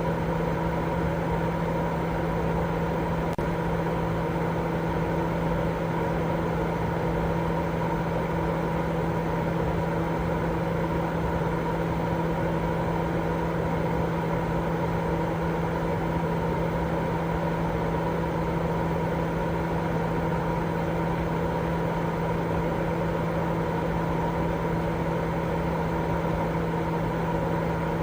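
Continuous baby-sleep white noise: a steady, unchanging hiss with a low hum and fainter higher tones running through it.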